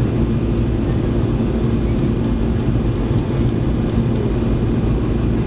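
Steady jet airliner cabin noise: a constant low rumble of engines and airflow with a couple of faint steady hums over it.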